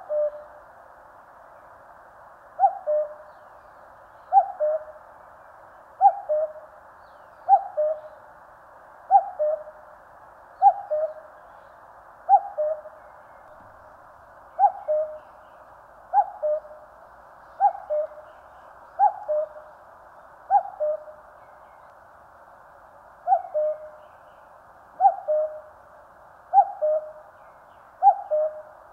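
Common cuckoo calling "cuck-oo" over and over, each call a higher note falling to a lower one, about every second and a half with a couple of short pauses.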